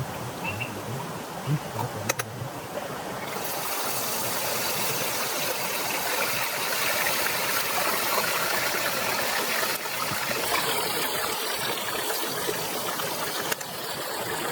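Rain falling steadily, becoming heavier and louder about three and a half seconds in, with a couple of sharp knocks about two seconds in.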